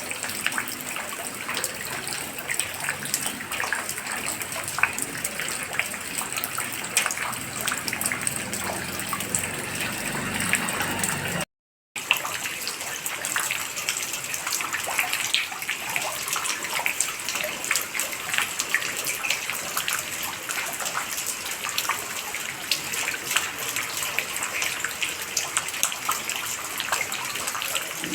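Running water splashing steadily, with many small sharp splashes over an even rush. The sound drops out for a split second about a third of the way through, then resumes.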